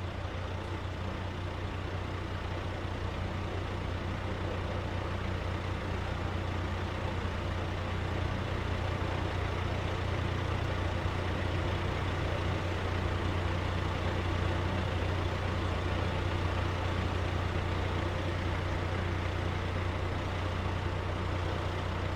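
A steady low engine drone, with an even rushing noise above it, growing slightly louder.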